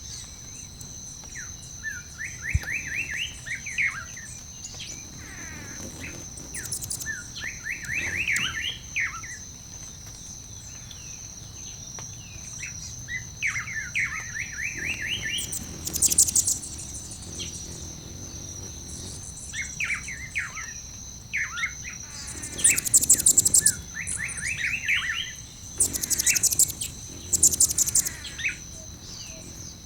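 Songbirds chirping in short repeated phrases every few seconds, with louder rapid high trills now and then. A steady high-pitched drone runs behind them.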